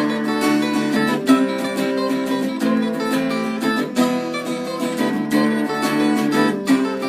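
Acoustic guitar strumming chords, with frequent strokes at a steady level, in an instrumental passage of an acoustic rock song.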